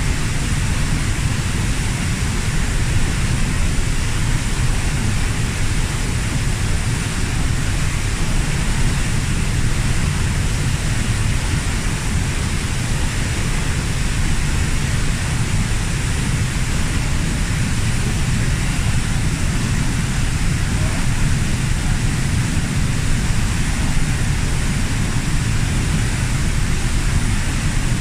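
Kozjak waterfall, about 15 m high, pouring into its pool: a loud, steady roar of falling water, strongest in the low end and unchanging throughout.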